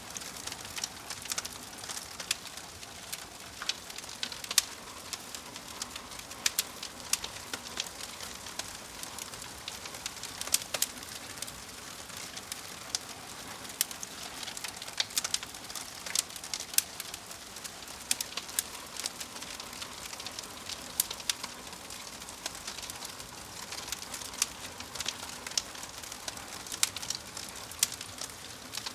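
Wood fire burning in a fireplace: irregular sharp pops and snaps over a steady soft hiss.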